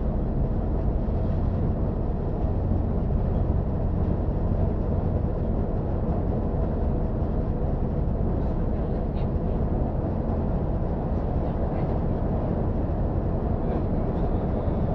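Steady running noise of a diesel multiple unit at speed, heard from the cab: an even low rumble of engine and wheels on the rails.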